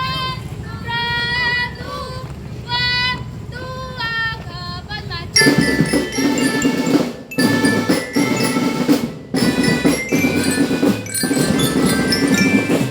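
Indonesian drum band playing: for about five seconds a single wavering melodic line, then the full band comes in loudly with drums and bell lyre (glockenspiel).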